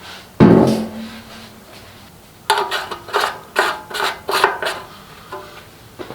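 A sharp metallic clunk that rings briefly, then about six quick rasping, scraping strokes, a bit under three a second.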